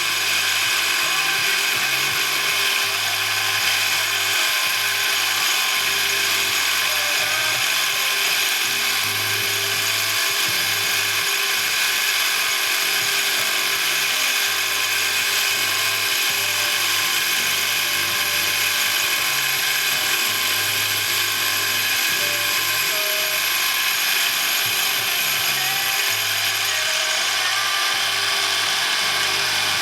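A metalworking machine tool runs steadily, as in boring out a seat in an aluminium engine cover, with several steady high tones over a pulsing low hum.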